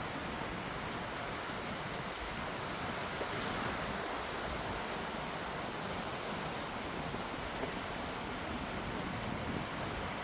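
Gentle sea waves washing, a steady hiss of moving water with a slight swell in level a few seconds in.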